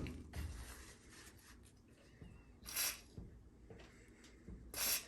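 WD-40 aerosol can sprayed in two short hissing bursts into a stiff dryer timer to free it, the second burst near the end.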